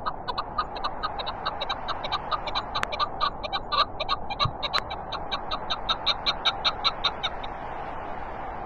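Chukar partridge calling a fast run of short clucking notes, about five a second, that stops near the end, over a steady rush of wind.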